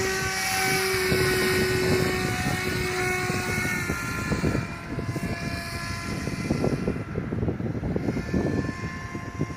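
Radio-controlled model airplane's engine and propeller droning in flight, a steady tone that fades after about four seconds, leaving a fainter one. Wind buffets the microphone.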